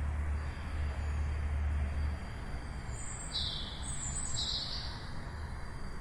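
Two short bird chirps about a second apart, over a steady outdoor background hush and a low rumble that fades out about two seconds in.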